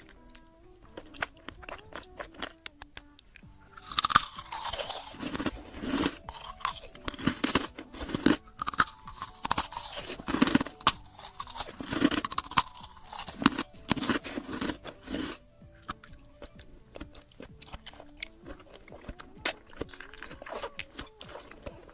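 Close-miked crunchy eating: crisp bites and chewing, densest and loudest from about four seconds in to about fifteen seconds, then lighter scattered crunches.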